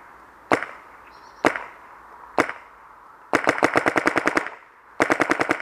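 Clone VX paintball marker firing through a SLY Dual Carbon barrel: three single shots about a second apart, then a rapid string of about a dozen shots, and a second rapid string of about seven shots near the end.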